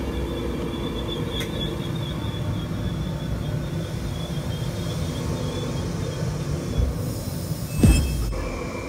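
LNER Azuma train at the platform: a steady rumble with a high electrical whine from its traction and underfloor equipment. About eight seconds in there is a sudden loud knock with a tone falling away.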